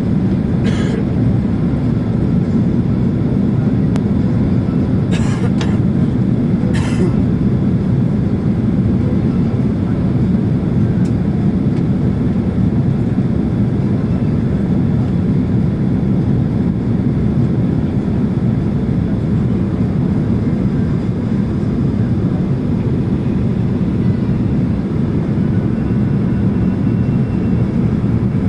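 Steady cabin roar of a Boeing 767-300ER in flight, its engines and airflow heard from inside the passenger cabin as a loud, even low rumble. A few short rattles come through in the first several seconds.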